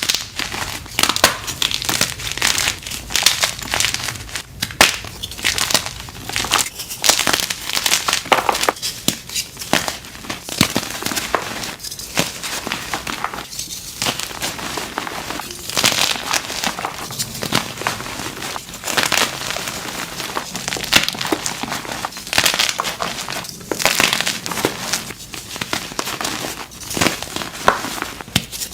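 Blocks of dyed gym chalk crushed by hand, a dense run of soft crunches and dry crackles.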